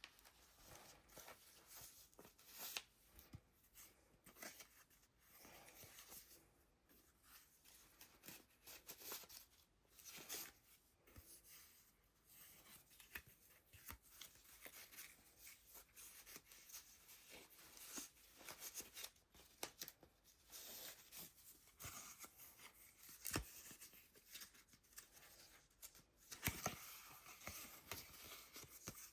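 Faint rustling of the paper pages of a handmade junk journal being turned and handled, with scattered soft taps and clicks.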